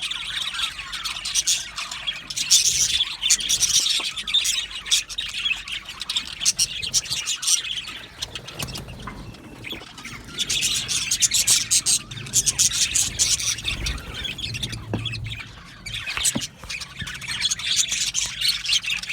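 A colony of budgerigars chattering together: fast warbling, chirps and the odd squawk overlapping, in louder spells that come and go.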